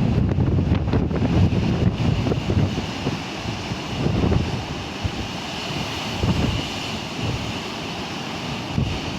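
Strong wind buffeting the microphone in gusts, over a steady hiss of surf. The gusts are heaviest in the first couple of seconds and ease somewhat after that.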